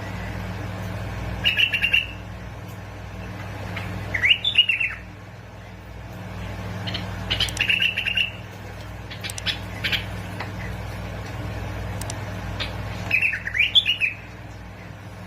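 Bulbul singing four short, bubbling song phrases a few seconds apart, over a steady low hum.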